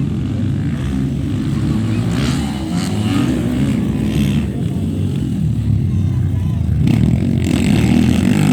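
Motocross motorcycle engines running and revving, with voices mixed in.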